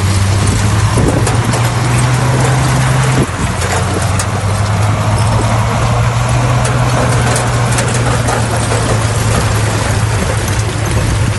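Bulldozer's diesel engine running steadily under a rough noise of clanks and scraping, its note dropping abruptly about three seconds in.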